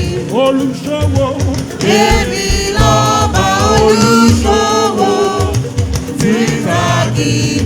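Music: voices singing a Yoruba church song in call and response, over instruments with a regular low beat.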